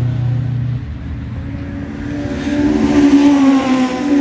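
Rally car engines at racing speed. One car's engine note fades about a second in, then another car approaches with its revs rising, loudest near the end.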